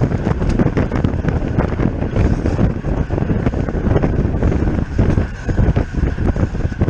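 Heavy wind buffeting on the microphone of a camera carried on a racing bicycle at speed.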